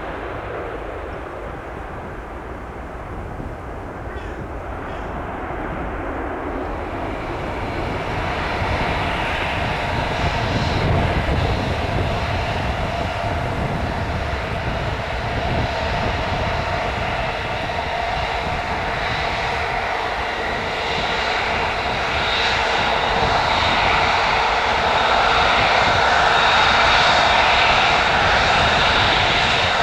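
Jet airliner engine noise throughout. From about eight seconds in, an Airbus A380's engines grow steadily louder, with a steady high whine over a low rumble.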